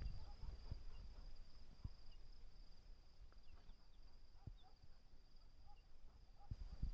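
Faint outdoor ambience: a steady high insect trill, like crickets, with a few faint bird chirps and occasional soft low knocks.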